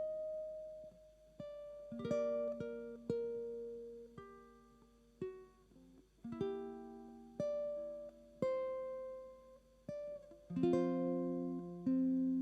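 Solo ukulele in a dropped-fourth tuning, its low G string lowered to F, playing a slow piece. Single plucked notes and a few chords, the fullest about two seconds in and near the end, are each left to ring and fade.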